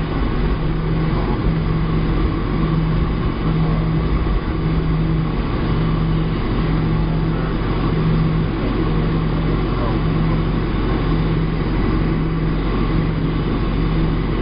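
Steady jet cabin noise inside a Boeing 737-700, with a low engine hum that swells and fades about once a second.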